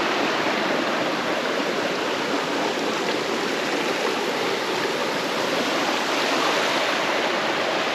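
Steady rush of water from a waterfall and its creek, an even hiss with no breaks.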